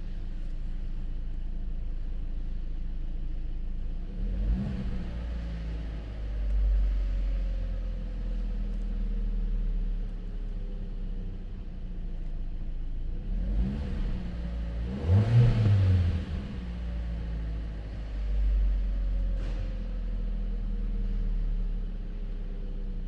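2023 Hyundai Tucson's 2.0-litre four-cylinder petrol engine idling steadily, with short throttle blips about four seconds in, a bigger rev about fifteen seconds in and a lighter one a few seconds later, each rising and falling back to idle.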